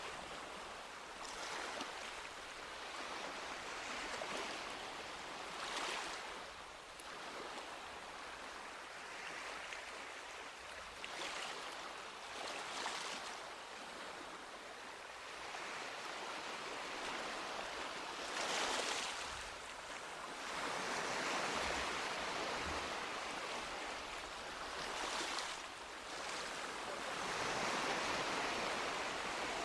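Small waves breaking and washing up a beach, a steady wash of surf with a louder swell every few seconds.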